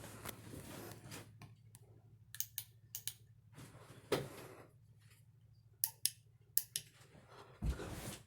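Ceiling fan running with a steady low hum, with about ten sharp clicks and taps scattered through it.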